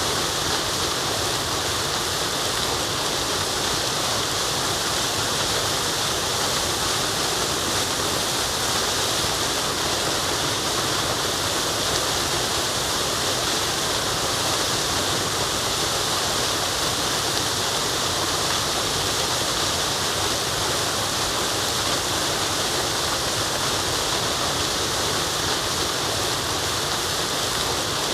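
Waterfall: a steady, unbroken rush of falling water, full of hiss and with no changes.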